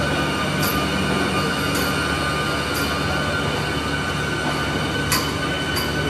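Train running, a steady rumble with a high whine held throughout and sharp high ticks about once a second.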